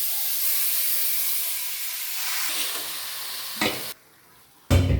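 Marinated chicken sizzling in oil in a pressure cooker as it is stirred, a steady frying hiss with a single clack about three and a half seconds in. The sizzle cuts off abruptly, and near the end comes a loud, heavy thud.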